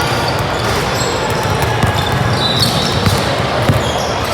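Basketball bouncing on a gym floor amid the steady, echoing din of a game in a large hall, with a few short high squeaks about two and a half seconds in.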